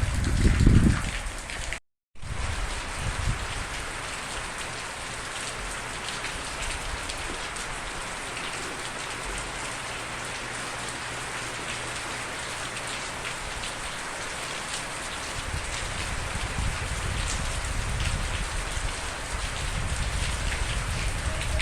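Steady rain falling on a surface, an even hiss. A loud low rumble comes in the first second and weaker low rumbling in the last few seconds. The sound cuts out completely for a split second about two seconds in.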